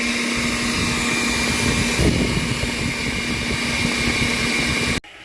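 A small electric motor running steadily, a loud whir with a constant low hum and a thin high whine, that cuts off suddenly near the end.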